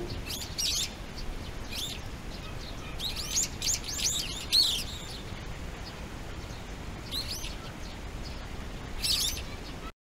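A songbird chirping in short clusters of quick, high, sliding notes, spaced a second or more apart, with the loudest cluster a little after four seconds in.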